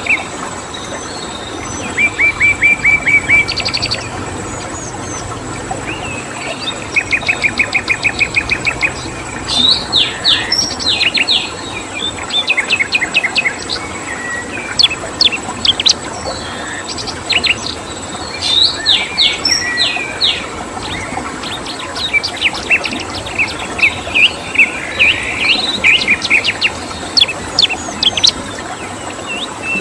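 Several songbirds chirping and singing in a mix of rapid trills of evenly spaced notes and bursts of sharp chirps. Behind them runs a steady background hiss and a thin, high, steady tone.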